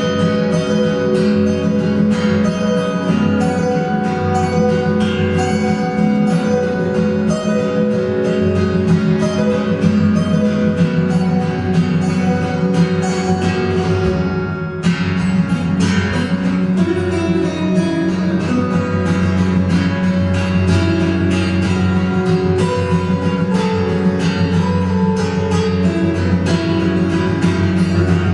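Acoustic guitar music: many plucked notes over a steady bass line, with a brief break about halfway through.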